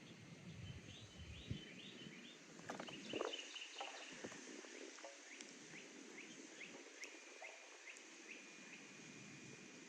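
Faint birds calling outdoors: quick runs of short, high chirps about a second in and again through the middle, then a thin steady note near the end. There is a soft knock about three seconds in, over low background noise.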